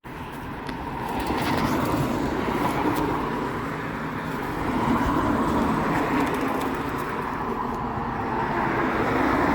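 Road traffic: a steady rush of passing cars that swells and fades several times as vehicles go by.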